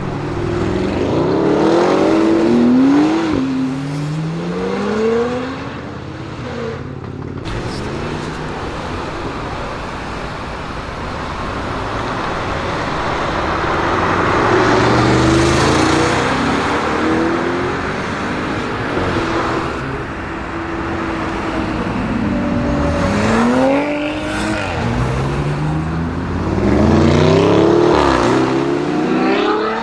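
Tuned Audi RS Q8's twin-turbo V8 accelerating hard through the gears: the engine note climbs, drops back at each upshift and climbs again, in several runs, with a swelling rush of noise between them.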